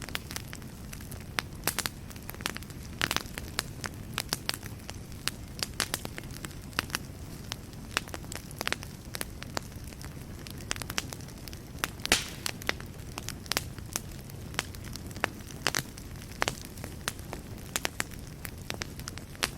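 Wood fire burning in a fireplace: a steady low rumble of the flames with irregular crackles and occasional louder pops of burning wood.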